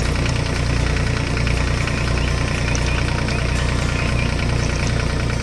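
Tractor engine sound effect, running steadily with a fast, even low chugging pulse.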